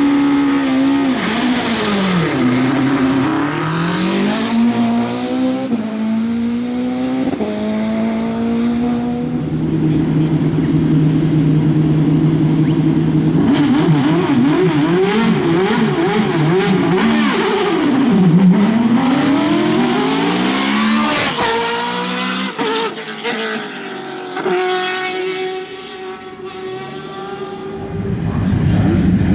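Race car engines at a hillclimb start: a car pulls away, its revs climbing and dropping through several upshifts. Then another engine holds steady revs, is blipped up and down repeatedly, and launches with a sharp rise in revs about two-thirds of the way through, accelerating away and growing fainter.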